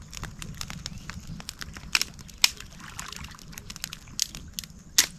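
Freshly lit wood campfire crackling and popping as it catches, with irregular sharp cracks, the loudest about two seconds in, shortly after, and near the end.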